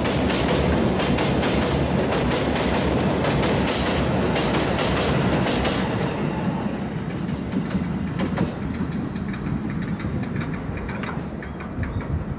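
Freight train of hopper wagons rolling past over a railway bridge: a steady rumble with the wheels clacking over rail joints. About halfway through the last wagon goes by, and the sound drops to fainter, scattered clacks as the train moves away.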